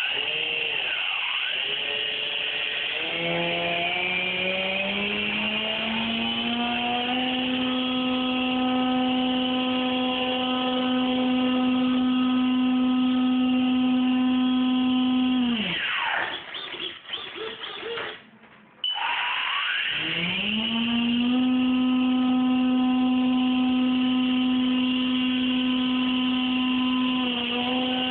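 RC model airplane motor spinning its propeller. It speeds up over a few seconds to a steady pitch and holds there, winds down to a stop about 16 seconds in, then restarts about 19 seconds in and spins back up to the same steady pitch.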